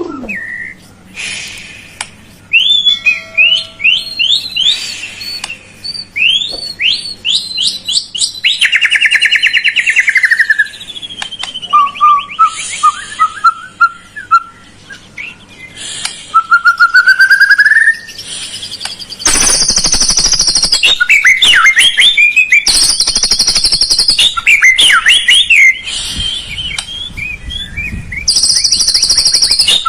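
Murai song: a varied run of clear whistles, rising slurred notes and fast trills, turning to denser, harsher chattering phrases about two-thirds of the way in. It is a lure song of the kind played to coax a quiet caged murai into singing.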